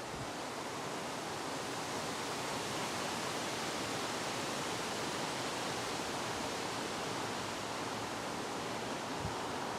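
Steady wind, an even rushing hiss that swells a little over the first few seconds.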